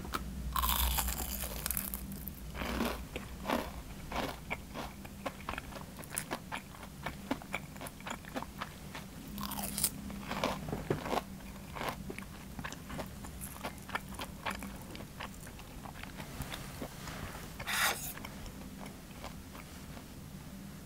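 Close-miked crunching of a crisp breaded, fried cheese pork cutlet (cheese tonkatsu) being bitten and chewed. The chewing comes as rapid crackles, with a few louder crunches about a second in, near ten seconds in and near eighteen seconds in.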